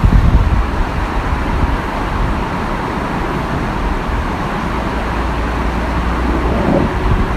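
Steady rush of falling water from a waterfall, with wind buffeting the microphone at the start.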